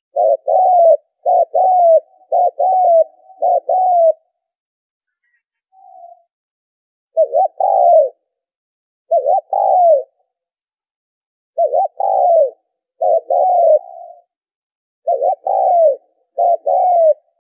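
Spotted dove cooing: short phrases of two or three low, arching coos, repeated about ten times with pauses between them.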